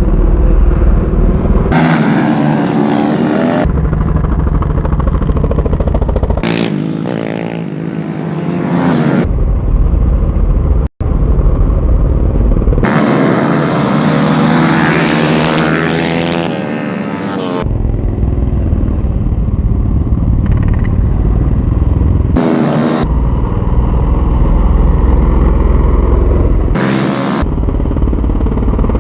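Racing motorcycles running hard, revving and passing by with rising and falling engine pitch. The sound changes abruptly several times.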